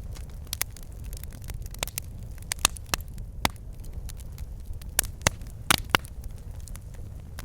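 Wood fire burning in a fireplace: logs crackling and popping irregularly over a low, steady rumble of flame, with a cluster of louder pops in the middle.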